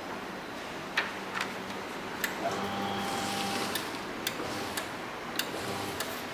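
A series of sharp, separate clicks and taps, about seven spread unevenly over several seconds, over a faint low steady hum that grows a little louder midway.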